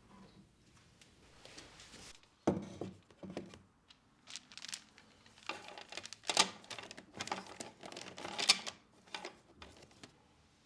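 Household handling sounds: irregular light knocks and clicks mixed with crinkling and rustling, as objects and packaging are handled and set down in a small room.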